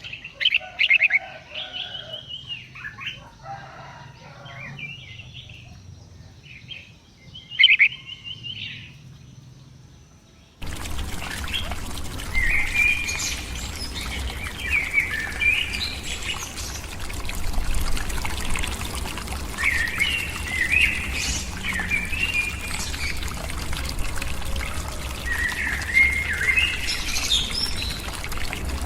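Small birds chirping and calling in short repeated phrases. About ten seconds in the sound changes abruptly to a louder recording, where similar calls continue over a steady rushing noise.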